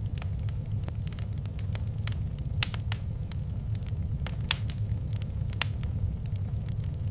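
Wood fire in a fireplace crackling: irregular sharp pops and snaps over a steady low rumble of the flames, the loudest pops about two and a half, four and a half and five and a half seconds in.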